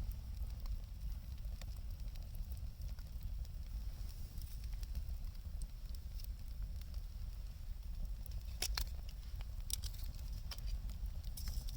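Wood fire burning, with scattered crackles and a few sharper pops over a low steady rumble.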